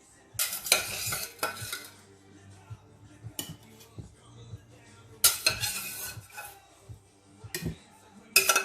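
Metal utensils scraping and clinking against a pot and a plate while boiled potatoes are served. There are three spells of scraping, one early, one in the middle and one at the end, with a few single sharp clinks in between.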